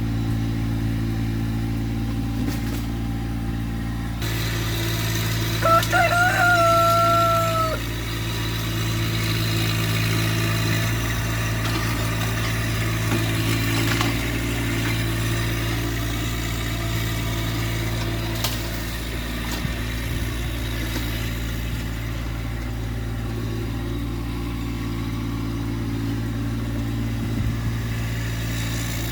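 Massey Ferguson GC1710 subcompact tractor's diesel engine running at a steady speed. A rooster crows once, loudly, about six seconds in, in one call of about two seconds.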